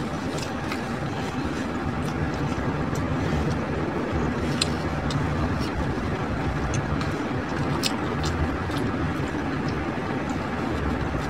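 A steady low background rumble with a few sharp crunches from a crunchy taco being eaten.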